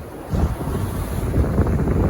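Sea waves breaking on the shore with wind buffeting the microphone; the rush swells suddenly louder about a third of a second in.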